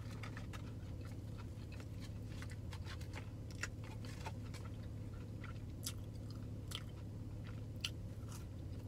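Close-up chewing and wet mouth clicks of a person eating a spicy fried chicken sandwich, over a steady low hum. Near the end she bites into a fry.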